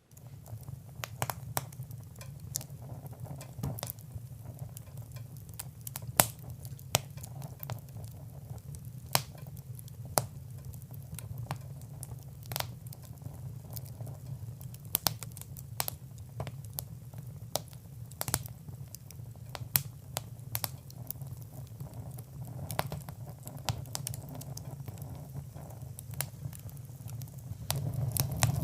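Fire in a fireplace crackling, with frequent sharp pops over a steady low rumble. It starts suddenly and grows louder near the end.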